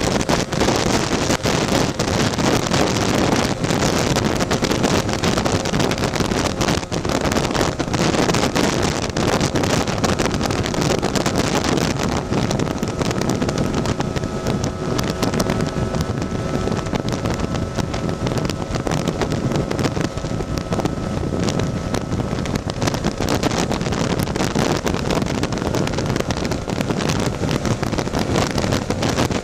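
Heavy wind noise on the microphone over a tuned Lambretta scooter's two-stroke engine running steadily on the move, its engine tone showing through more clearly midway.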